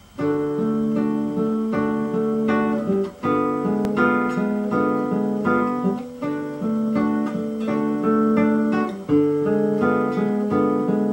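Acoustic guitar playing a strummed and picked chord introduction at a steady pulse, starting suddenly at the beginning.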